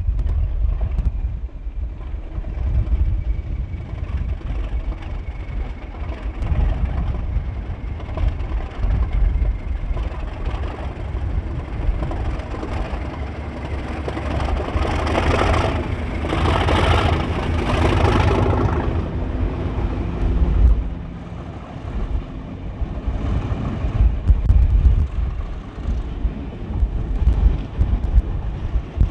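Class 37 diesel locomotive's English Electric V12 engine working hard as it pulls away, under heavy wind buffeting on the microphone; the sound swells loudest around the middle.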